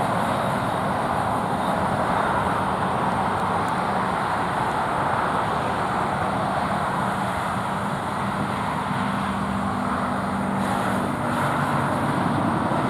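Steady road traffic noise: a constant rush of passing cars, with a low hum underneath that fades near the end.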